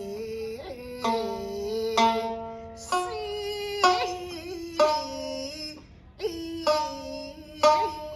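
Nanguan music: a slow sung line held on long, gently bending notes, marked by a plucked Nanguan pipa stroke about once a second.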